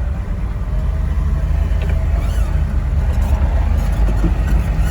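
A 1973 Ford F-250's 7.3 IDI turbo diesel V8 running under load as the truck drives in deep snow, a steady low rumble that grows a little louder toward the end.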